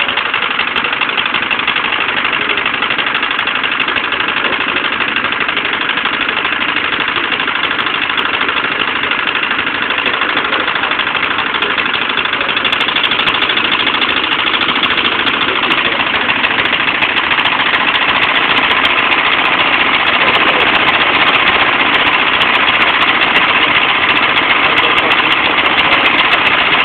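Propane-fuelled engine running steadily, growing a little louder in the last third.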